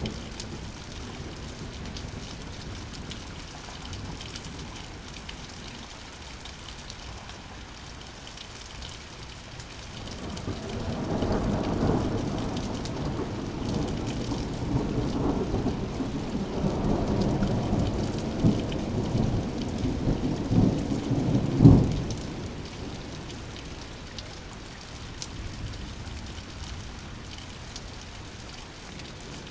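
Steady rain falling, with a long roll of thunder that builds about a third of the way in, rumbles for about ten seconds and ends in a sharp crack before fading back to the rain.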